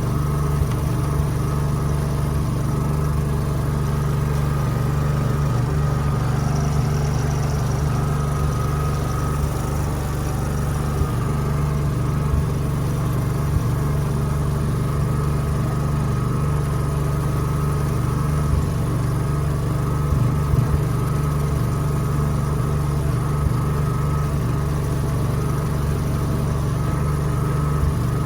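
Generator engine running steadily, a constant droning hum.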